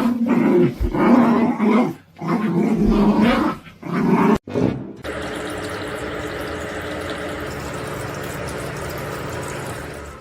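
A dog vocalizing in three drawn-out stretches over about four seconds, followed by a steady rushing noise with a faint hum.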